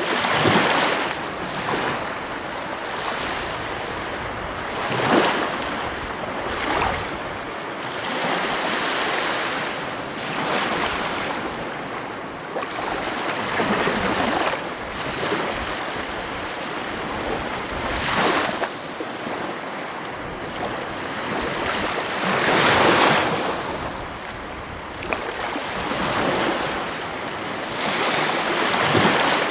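Heavy ocean waves breaking on the coast: a continuous wash of surf that swells with a louder crash every few seconds.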